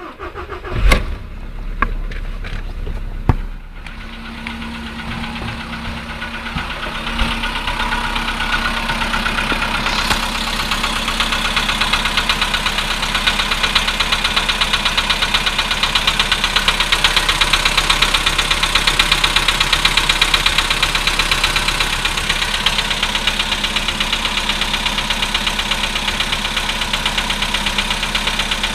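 Volkswagen Polo Sedan's 1.6-litre CFNA petrol four-cylinder started from cold. It catches in the first few seconds, then idles with a rapid metallic knocking that grows louder over the next several seconds and keeps on steadily: the cold-engine knocking this engine is known for.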